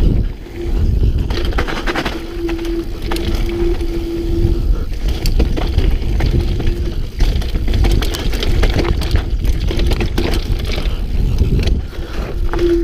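Mountain bike rattling down a rough trail: heavy low rumble of wind and tyres on a helmet-mounted camera, with repeated clatter over bumps. A steady low hum comes and goes over it, clearest from about two to four and a half seconds in.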